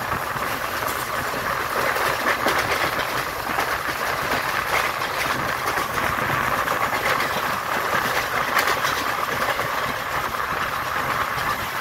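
Passenger train running at speed behind a WDM-3A diesel locomotive, its ALCO V16 engine chugging ahead, with steady wheel-on-rail noise and scattered clicks from the track.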